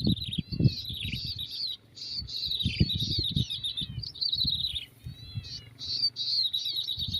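Small songbirds chirping and singing in quick, repeated chattering phrases, with soft low knocks of handling underneath.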